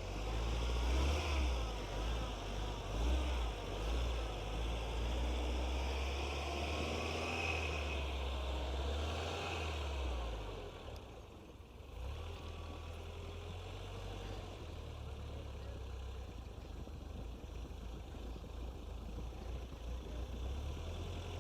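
Off-road 4x4 truck engine and tyres working through deep fresh snow, under heavier load for the first ten seconds, dipping briefly, then running on steadier and quieter.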